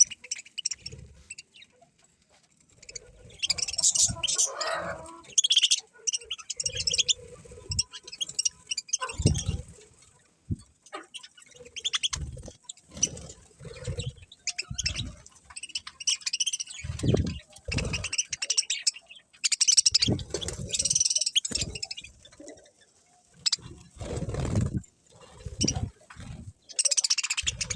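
Budgerigars chirping and chattering in irregular bursts with short pauses between them, with some low thuds mixed in.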